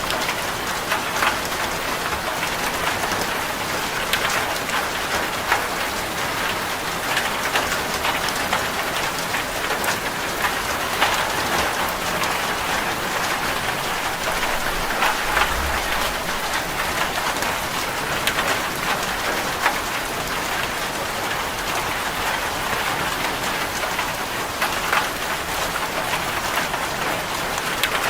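Steady rain falling on a corrugated zinc roof: a constant hiss dotted with many sharp individual drop ticks.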